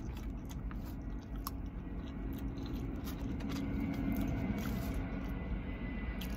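A man chewing a mouthful of Panda Express food, mostly rice, close to the microphone, with small wet mouth clicks. A steady low rumble runs underneath.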